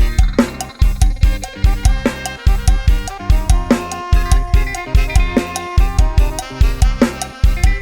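Thai lam sing–style band music driven by an Addictive Drums 2 virtual drum kit: fast, steady bass drum and snare hits under a melody.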